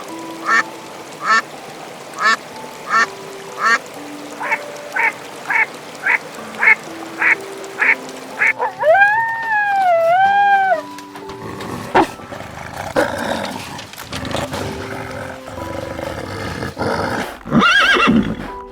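Ducks quacking, a quick run of short calls about two a second, then a longer wavering call, over light background music.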